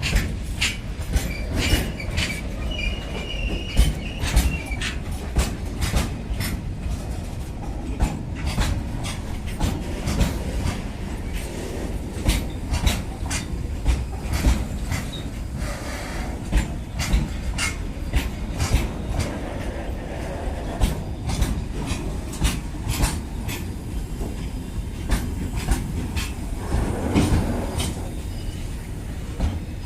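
Goods train of flat wagons loaded with railway sleepers rolling past: a steady low rumble with frequent clacks of wheels over rail joints, and a short wheel squeal a couple of seconds in.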